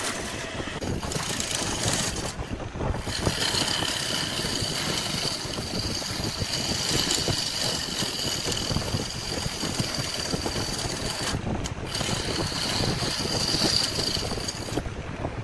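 Wood lathe running steadily. A high whine sets in about three seconds in and breaks off briefly near the end.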